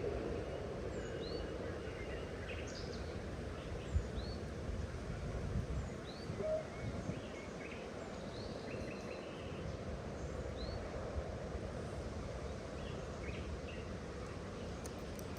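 Small birds calling with short, quick rising chirps, scattered every second or so over a steady outdoor background hiss, with a single low thump about four seconds in.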